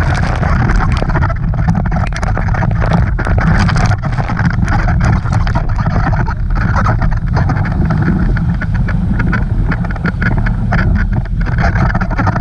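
Motorboat running steadily at speed, with heavy wind buffeting and crackling on the microphone.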